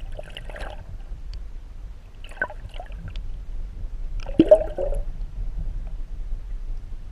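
Water splashing and gurgling in several irregular bursts, the loudest about halfway through, over a low steady rumble.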